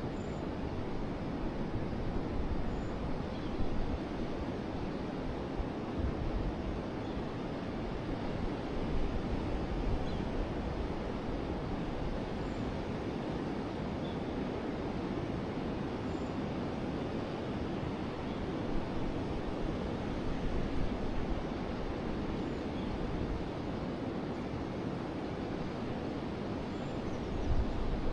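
Forest river flowing: a steady rush of running water, with a few faint high chirps scattered through it.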